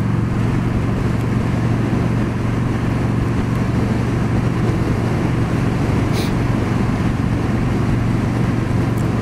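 Yamaha V Star 1300's V-twin engine running steadily at cruising speed, mixed with wind and road noise.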